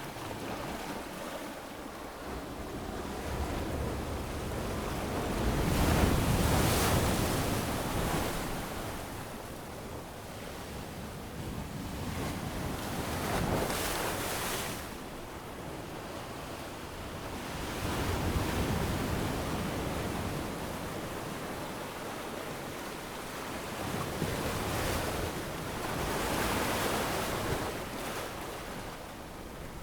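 Ocean waves washing onto a beach, the surf swelling and ebbing every several seconds, with some wind on the microphone.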